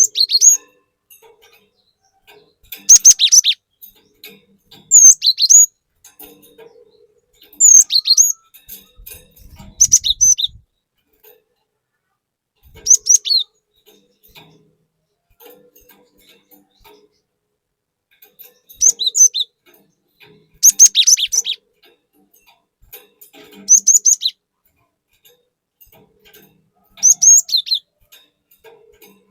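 A cinereous tit (glatik batu) singing: short, high chirping phrases repeated about ten times, mostly every two to three seconds, with a longer pause in the middle.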